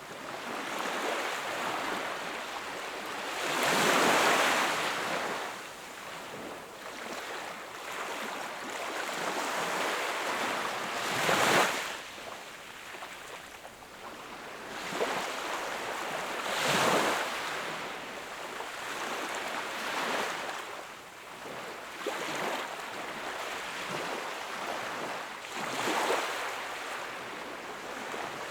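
Sea waves washing onto the shore: a steady hiss of surf that swells into a louder rush as each wave breaks, about four times, the strongest near the start and near the middle.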